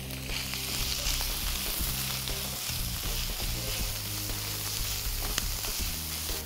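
Chicken mince with sliced onion and green chillies sizzling in hot oil in a frying pan, stirred and pushed about with a wooden spatula, with a steady frying hiss and a few light scrapes.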